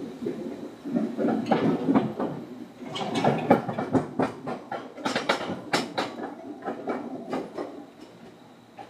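Seibu 2000 series electric commuter train running, heard from inside the car: a rumble with a dense run of sharp clicks and knocks from the wheels over rail joints and points. The sound grows quieter near the end.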